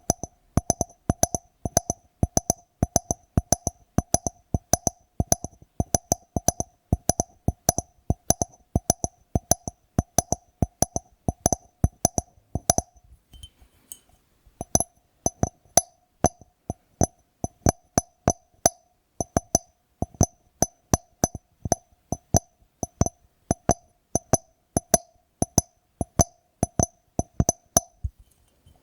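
Quick, steady tapping on a glass jar, several taps a second, each tap ringing briefly at the same pitch, with a short pause about halfway through.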